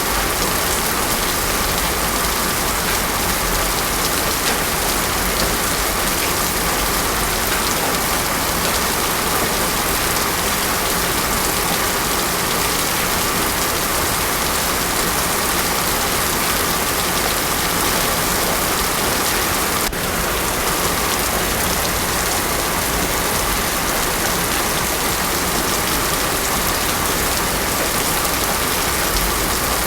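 Heavy rain falling steadily on a paved road, a dense even hiss with no thunder. There is a brief click about twenty seconds in.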